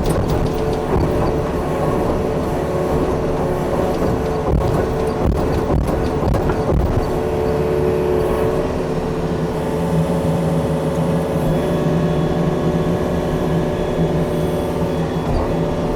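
Yanmar compact excavator's diesel engine running steadily while it works, with several knocks between about four and seven seconds in.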